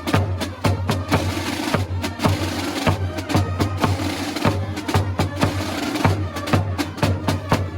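Carnival drum band playing a steady, driving rhythm of sharp, rapid strokes over a low, sustained sound, with crowd voices mixed in.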